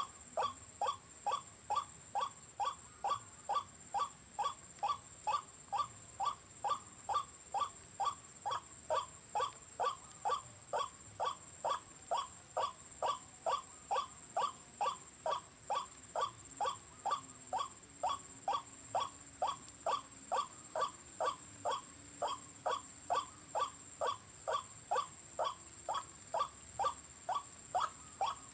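White-breasted waterhen call repeated over and over from a music box used as a trapping lure: one short falling note about twice a second, without a break, over a faint steady high whine.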